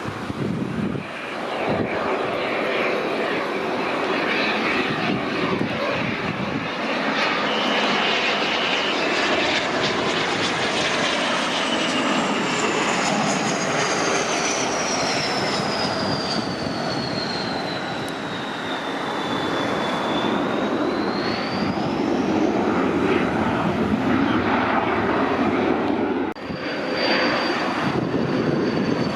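Kawasaki T-4 jet trainer's twin turbofan engines, a loud jet roar carrying a high whine that falls steadily in pitch for about twenty seconds and then rises again. Near the end the sound dips briefly and a new steady high whine takes over.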